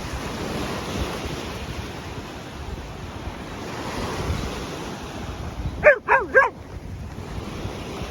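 Surf washing and wind on the microphone, with a dog barking three quick times about six seconds in.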